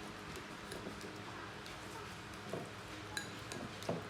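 A few light, scattered clinks and taps of hard objects, like dishes or utensils being handled, over a low steady hum.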